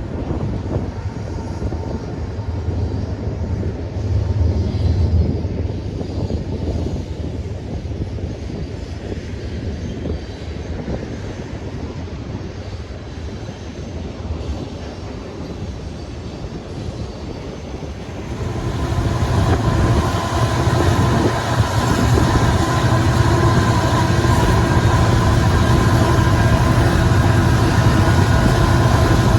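Canadian National freight train running by with a steady rumble of wheels on rail. About 18 seconds in it grows louder and a set of steady tones comes in and holds.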